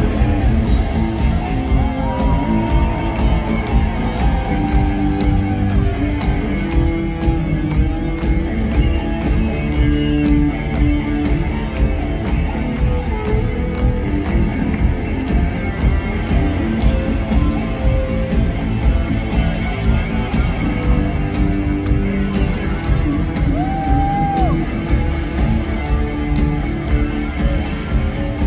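Live rock band playing at an arena concert: electric guitars over bass and drums, continuous and loud.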